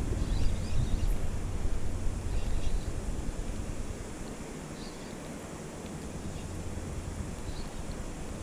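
Wind buffeting the microphone as a low, uneven rumble, heaviest in the first three or four seconds, then easing to a steadier hiss of wind and choppy water.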